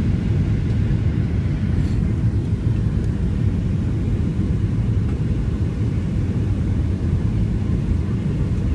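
Boeing 737 cabin noise during landing: a steady low rumble of the engines and rushing air, even in level throughout.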